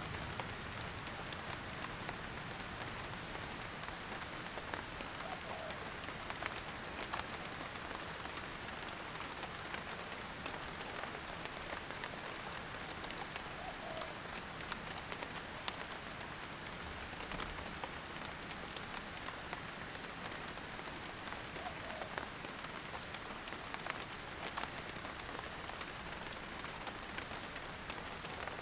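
Steady rain falling, an even hiss with many sharp individual drops ticking close by.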